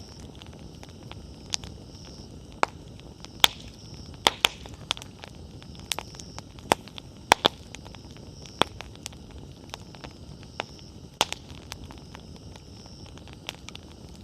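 Wood campfire crackling: irregular sharp pops and snaps, a dozen or so louder than the rest, over a soft steady noise of the burning fire, with a faint high hiss that comes and goes.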